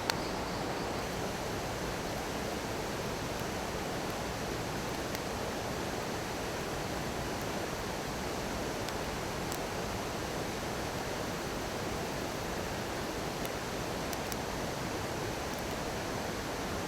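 Small stream flowing steadily with an even rushing babble, a few faint crackles of a wood bonfire scattered through it. A single sharp click right at the start.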